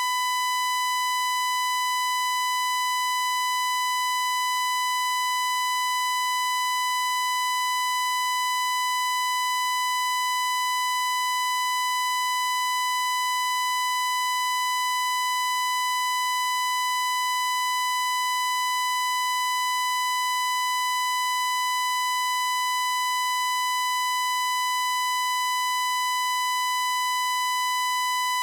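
A steady, unbroken high-pitched electronic tone, like a held beep, at constant pitch and loudness.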